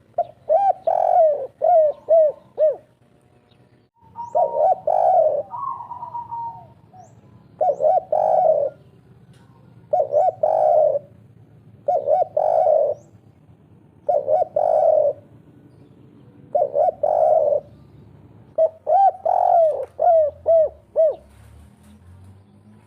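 Spotted dove (derkuku/tekukur) cooing its three-note 'kuk 3' call, a phrase repeated about every two to three seconds, with faint high chirps of small birds between phrases.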